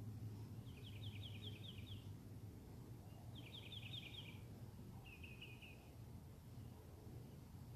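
A songbird singing three short phrases of rapid repeated notes, each under a second and spaced a second or two apart, over a faint steady low rumble.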